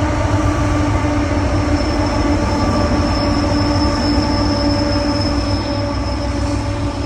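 Freight train rolling past with a steady heavy rumble, and a thin high wheel squeal that sets in about two seconds in.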